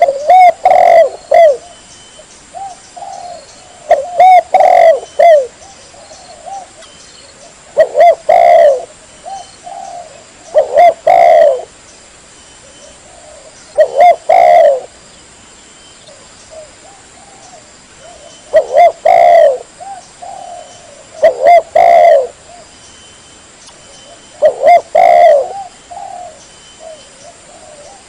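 Spotted dove (tekukur) cooing: a loud phrase of several coos repeated every three to four seconds, as used to lure wild doves.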